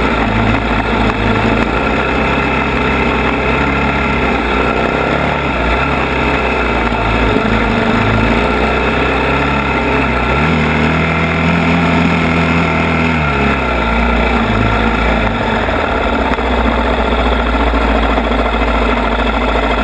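ATV engine running as it is ridden along the trail, with a stretch of higher revs a little past halfway.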